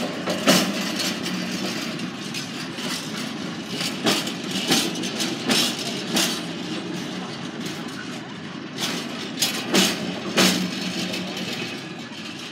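Freight train of empty flat container wagons rolling past at close range: a steady rumble of wheels on rail, broken by repeated sharp clunks, often in close pairs, as the wheelsets pass over the track.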